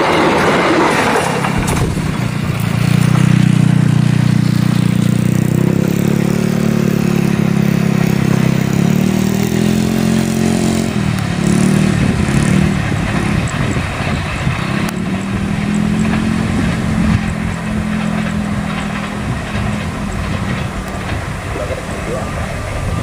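Passenger train carriages rushing past close by. After a second or so this gives way to a steady low engine drone that weakens about halfway through, then returns more faintly.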